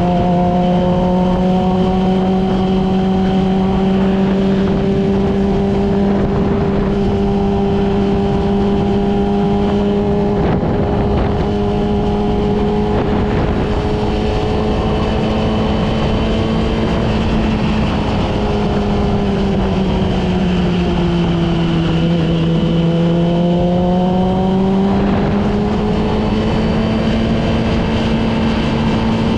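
Yamaha R6's inline-four engine running at a steady cruising pitch. Past the middle the note drops as the bike eases off, then climbs back.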